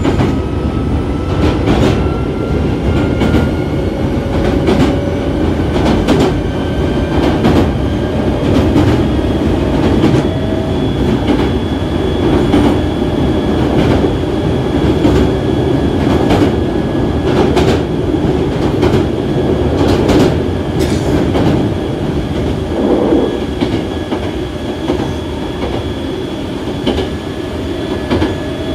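Hankyu 7000 series electric commuter train running, heard from inside a passenger car: a steady rumble with irregular clacks of the wheels over rail joints. A thin whine rises in pitch over the first several seconds as the train gathers speed, then holds steady.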